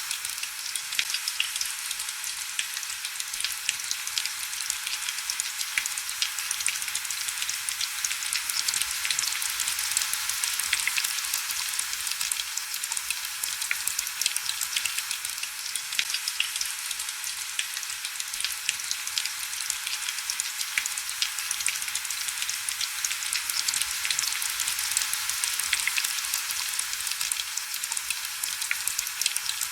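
Heavy rain falling on window glass: a steady, dense high hiss made of countless fine drop ticks, with almost no low rumble.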